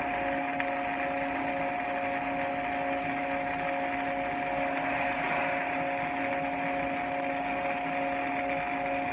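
Steady machine drone: a few held tones over an even hiss, unchanging throughout.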